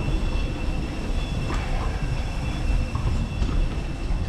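Steady low rumble of a moving vehicle heard from inside it, with a few faint steady high whining tones over it.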